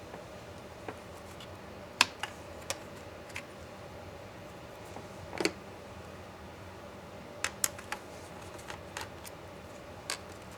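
Scattered small clicks and taps of tools and parts being handled while a gaming laptop is taken apart, with one sharp click about two seconds in, a duller knock in the middle and a quick run of clicks later on.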